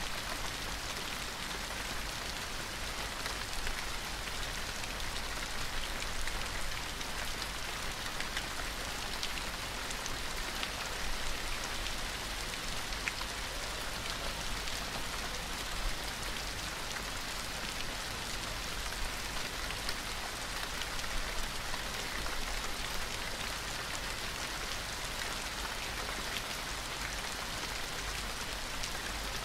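Steady gentle rain falling, an even hiss with many small drops pattering on a surface.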